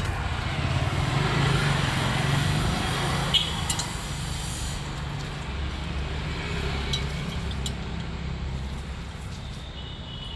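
A motor vehicle's engine running steadily, with two short clicks about three and a half seconds in.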